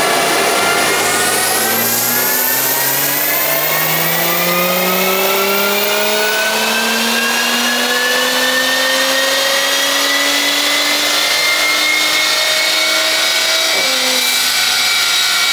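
Audi B9 S5's turbocharged 3.0-litre V6, running a Stage 2+ tune with an aftermarket downpipe and an otherwise stock exhaust, pulling at full throttle in fifth gear on an all-wheel-drive chassis dyno. The engine note rises steadily through the revs for about twelve seconds, then drops sharply near the end.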